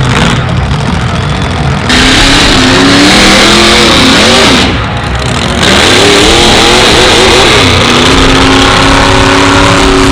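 Monster truck engine revving hard, its pitch climbing and falling again and again, with a brief drop about halfway through. Near the end it holds a steady high rev.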